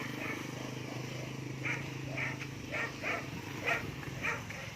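A dog barking repeatedly, about two barks a second, starting a second and a half in, over a steady low hum.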